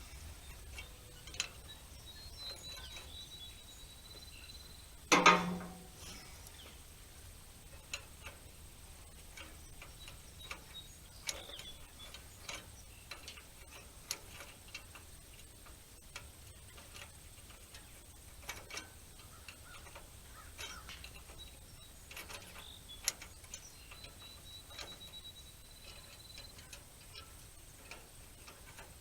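Wrench work on a hay rake's bolts: scattered light metallic clicks and taps, with one louder metal clank about five seconds in.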